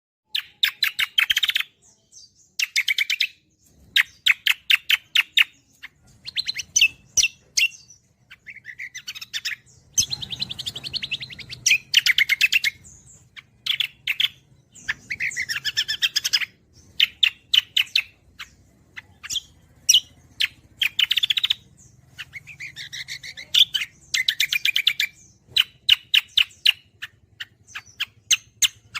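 A cucak kombo songbird singing in full, fast song ('gacoran'). It gives repeated bursts of rapid chattering notes, each about a second long, with short pauses between.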